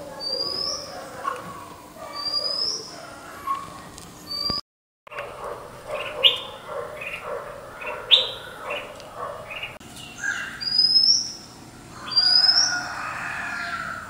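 Red-whiskered bulbul calling, with a thin high rising note repeated about once a second. After a brief break about five seconds in, a busier run of bird chirps and sharp rising calls follows.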